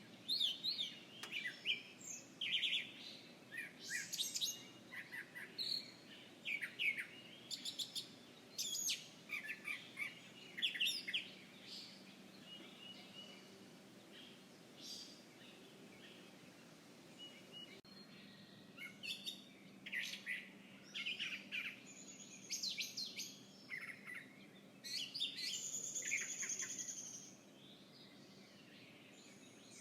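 Several songbirds chirping and trilling, with short high calls coming in quick bursts, thinning out in the middle and picking up again before tailing off near the end, over a faint steady outdoor background.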